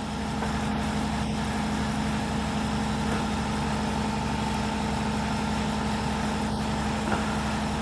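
Shop air compressor running steadily with a low, even hum. A couple of faint ticks come from the bandsaw blade and wheels being rolled by hand.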